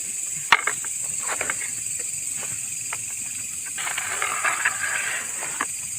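Wood fire crackling with scattered sharp pops, the loudest about half a second in and a denser patch of crackle around two-thirds of the way through, over a steady high-pitched chorus of night insects.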